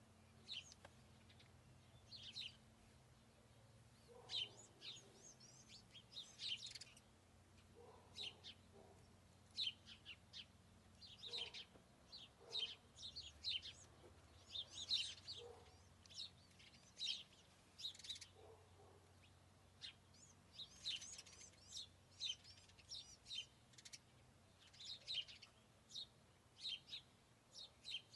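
Small birds chirping faintly: many short, high chirps come every second or so, with a few lower notes mixed in.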